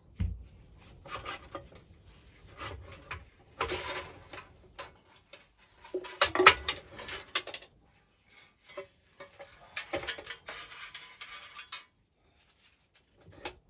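Metal parts of a lawnmower's pull-start recoil assembly being handled, clinking and rattling. Irregular runs of clicks and short clatters, the loudest about six and a half seconds in.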